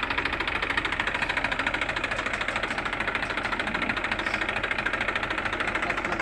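Massey Ferguson 241 DI tractor's three-cylinder diesel engine running steadily, with a rapid, even diesel clatter.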